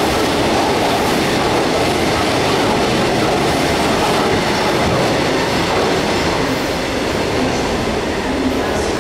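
Freight train of EWS bogie coal hopper wagons rolling past, a steady loud run of wheels on the rails.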